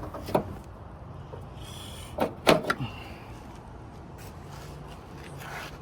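A few sharp metal knocks and clanks of tools and parts being handled during a motor mount replacement: one near the start, then three close together a little over two seconds in, the middle one the loudest. A low steady hum lies under them.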